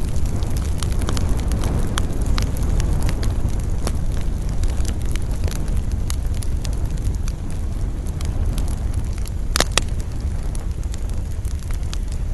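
Wood campfire crackling, with many small irregular pops and one louder snap nearly ten seconds in, over a steady low rumble of wind.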